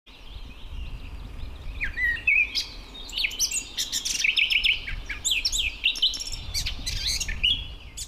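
Several small birds singing and chirping in quick, overlapping phrases of short falling notes, over a low rumble.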